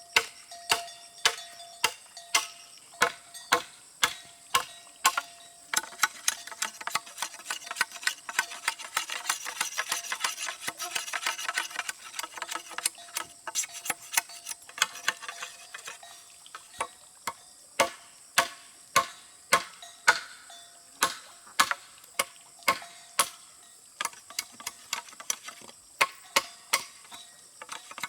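Repeated sharp knocks, about two a second, with a faint steady high tone underneath and a busier, noisier stretch in the middle.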